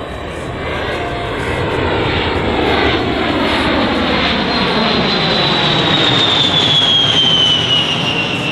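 A USAF A-10 Thunderbolt II's two General Electric TF34 turbofans on a low pass: a steady jet rush that builds, with a high whine that drops in pitch from about halfway through as the jet goes by.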